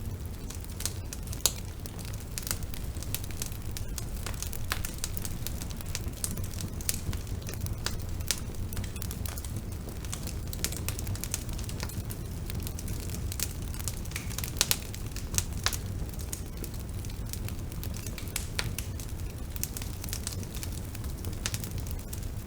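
Bonfire burning: a steady low rumble of flames with frequent sharp, irregular crackles and pops of burning wood.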